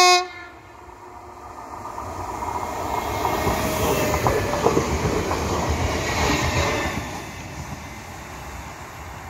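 EN64 electric multiple unit sounding a short horn blast, the Rp1 'attention' warning signal, right at the start. It then passes at speed, its wheels clicking over the rail joints, growing louder over the first few seconds and fading after about seven.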